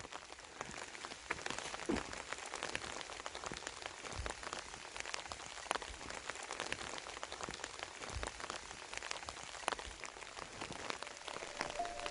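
Rain falling: a steady hiss with many separate drops ticking close by.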